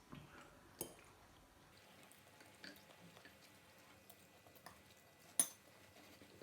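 Faint eating sounds from a bowl of spicy instant noodles: a few scattered light clicks and small knocks of utensils against the bowl, the sharpest about five seconds in.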